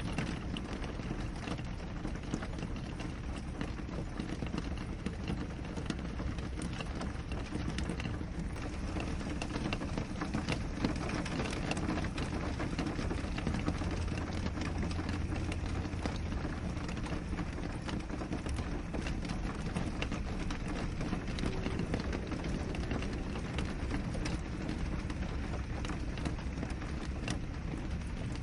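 Steady rain on a window: a dense, even patter of drops over a low rumble.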